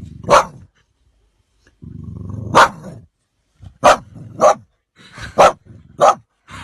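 A pet dog 'answering' with a low grumbling growl that breaks into a sharp bark, twice. Then four quicker barks follow near the end.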